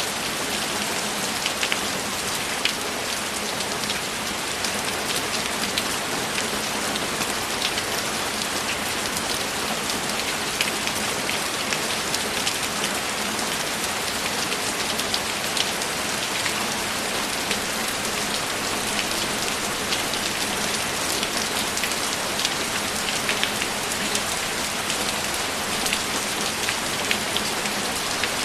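Steady heavy rain falling, a dense even hiss with many small drop ticks scattered through it.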